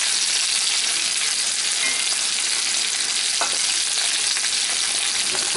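Chicken breasts sizzling in bacon grease in a cast-iron skillet: a steady hiss of frying, with a faint click about three and a half seconds in.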